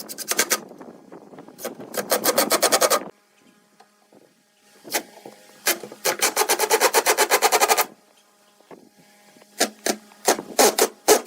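A hand tool working wood in fast, even back-and-forth strokes, about eight a second, in bursts of one to two seconds separated by short pauses.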